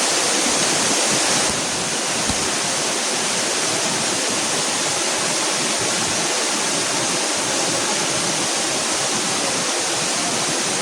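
Waterfall water pouring in a steady, loud rush, dipping a little in level about one and a half seconds in.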